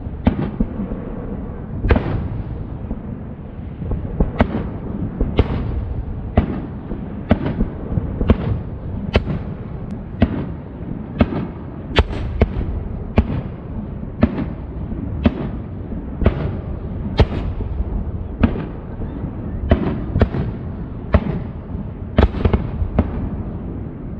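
Aerial fireworks shells bursting one after another, a sharp bang about once a second, over a steady low rumble.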